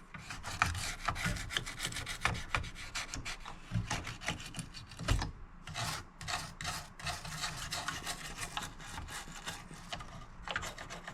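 Soft-bristle toothbrush scrubbing a circuit board wet with isopropyl alcohol to loosen grime, in quick repeated scratchy strokes.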